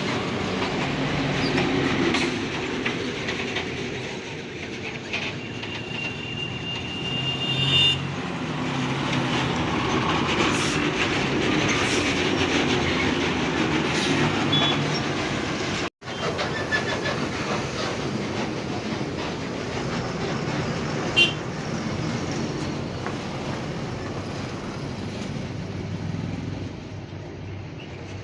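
Heavy trucks and dumpers rolling past in slow, heavy traffic: a steady rumble of diesel engines and tyres, with a brief high-pitched squeal about six seconds in.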